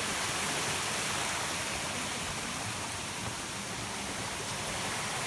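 Waterfall on a mountain river: a steady rush of falling water.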